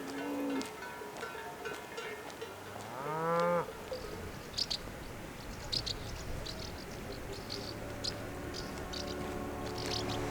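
A cow mooing: one call about three seconds in that rises and then falls in pitch, over background music with sustained notes.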